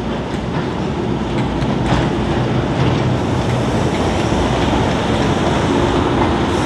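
Train running along the line: a steady, loud rumble with a few faint clicks in the first couple of seconds.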